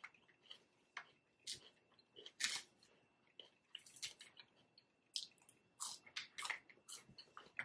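Faint close-miked chewing: irregular wet mouth clicks and smacks of a person eating.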